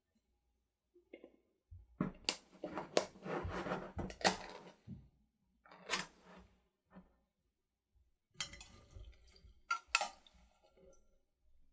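Kitchen utensils and dishes being handled: clinks and knocks with scraping from about two seconds in, a single knock shortly after, and another short cluster of clinks near the end.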